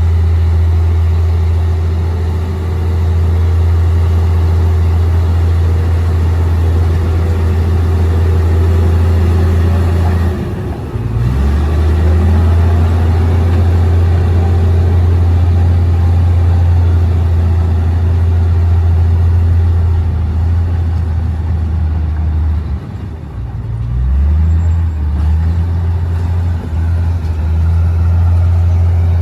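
Komatsu D58P bulldozer's diesel engine running steadily under load. Its note drops and shifts twice, briefly about a third of the way in and again past three-quarters, as the load on it changes.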